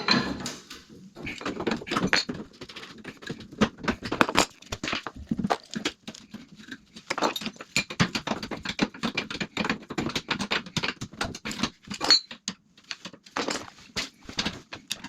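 Irregular clinks, taps and rattles of hand tools and metal plumbing fittings being handled and worked, as old pipe valves are swapped out.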